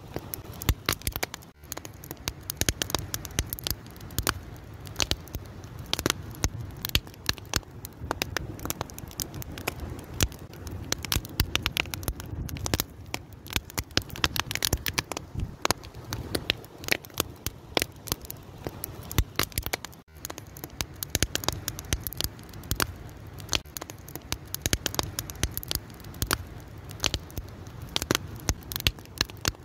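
Wood fire crackling, with many irregular sharp pops and snaps over a steady low rush of burning.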